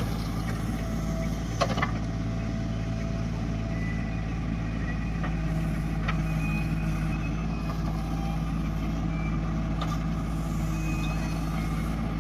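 Heavy diesel engine of the soil-loading machinery running steadily at a constant speed, with one sharp knock about two seconds in.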